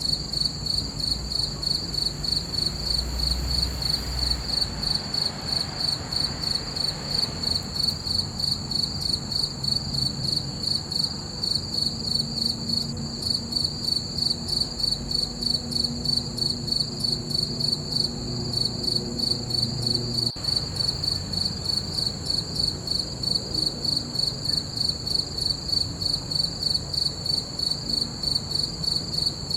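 Crickets chirping in a steady, even rhythm, about three high-pitched chirps a second, over a faint low rumble.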